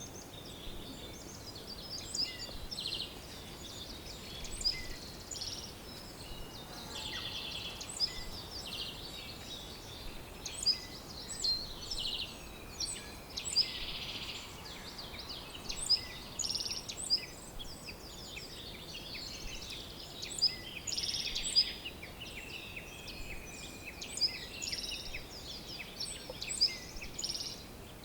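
Chorus of many small birds chirping and trilling, with dense, overlapping short high calls and sharp notes, over a faint steady hiss.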